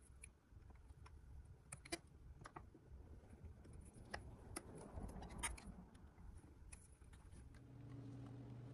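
Faint, scattered light clicks and taps over a low rumble, with a steady low hum coming in near the end.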